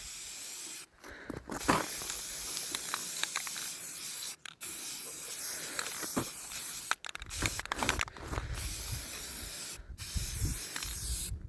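Aerosol spray paint can hissing in several long bursts of two to three seconds, with short breaks between them; the can has little paint left. Some low bumps of handling come in the second half.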